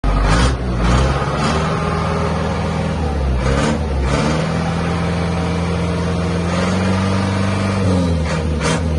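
Isuzu Elf's 4HJ1 four-cylinder diesel engine being revved on test: the revs rise and fall in several blips, then are held at a raised speed for a few seconds before dropping and being blipped again near the end.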